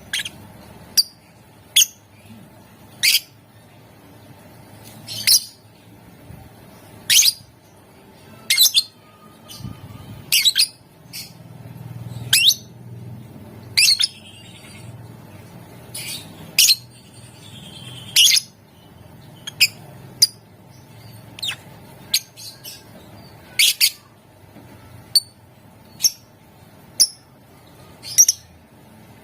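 A lovebird giving short, sharp, high-pitched squawks, about one every second or two, sometimes two in quick succession.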